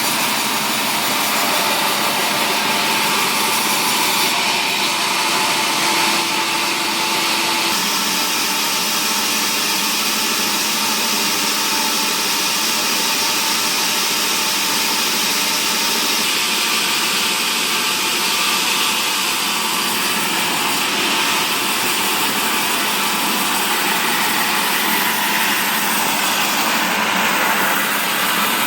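Wood-processing saw machinery running steadily, a continuous even noise that shifts slightly about eight seconds in.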